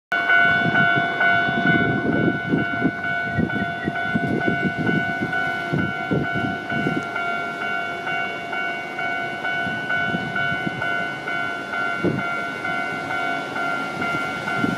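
Japanese railway level-crossing alarm sounding a quick, evenly repeating electronic bell tone without pause, over the low, uneven rumble of a train passing.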